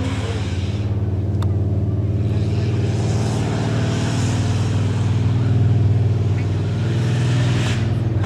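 Tuff truck's engine running steadily at a fairly even pitch, with one sharp click about a second and a half in.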